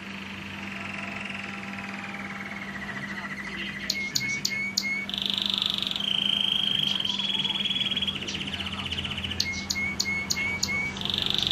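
Red factor canary singing a long song of rapid rolling trills, held rolls and sharp repeated chirps, the pitch shifting between phrases. A steady low hum runs underneath.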